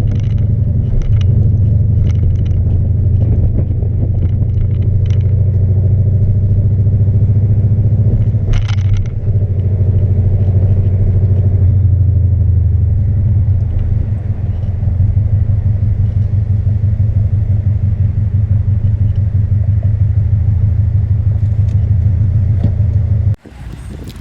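Turbocharged Subaru flat-four running with its muffler blown out, so the exhaust is essentially a straight pipe: a loud, steady, low drone that stops abruptly near the end.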